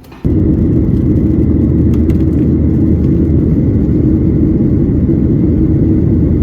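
Loud, steady low rumble of a vehicle in motion, starting abruptly about a quarter of a second in.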